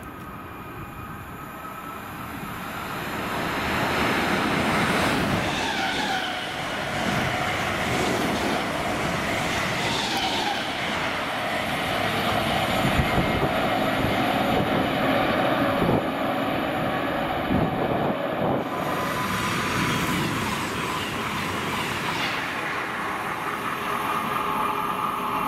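A train passing, growing louder over the first few seconds and then going by steadily for about twenty seconds, with wheel and rail noise, some high wheel squeal and a few sharp clicks from the rail joints.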